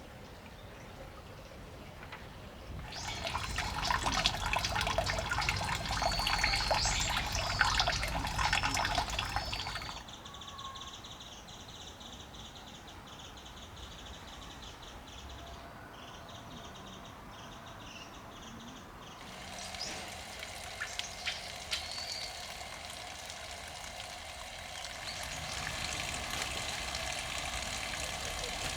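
Spring water trickling and pouring, with birds chirping over it. The water sound jumps louder about 3 s in, drops suddenly at about 10 s, and rises again near 20 s.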